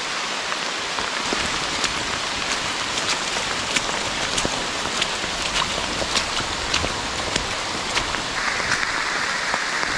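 Steady rain falling through forest foliage, with scattered sharp taps of drops landing close by.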